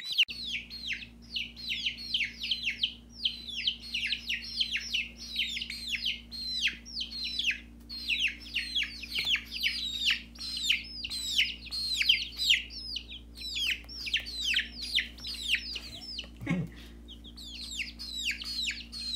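A brood of baby chickens peeping without pause: many high, downward-sliding peeps overlapping several times a second, thinning briefly near the end, over a steady low hum.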